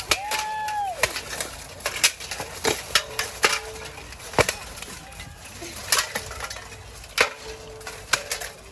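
A series of sharp, irregular knocks and clacks of hard objects striking, about one or two a second, with a short held tone near the start.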